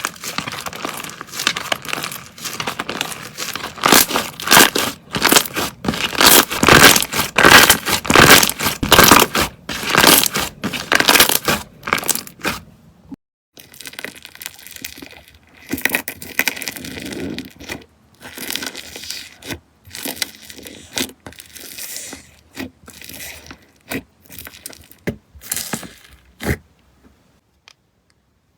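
Slime being handled, with dense, irregular crackling and crinkling pops. The sound cuts off suddenly about halfway through and comes back quieter, then stops a couple of seconds before the end.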